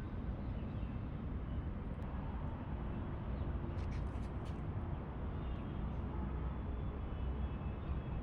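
Steady low outdoor background rumble, with a few faint high chirps and a quick cluster of small clicks about four seconds in.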